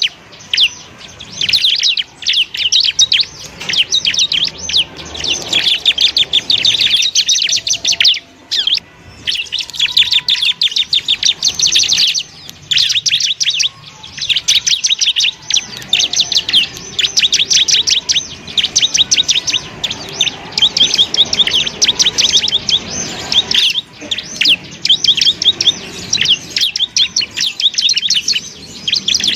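Bar-winged prinia (ciblek) singing: rapid, continuous strings of high, sharp chirps, broken by brief pauses every few seconds.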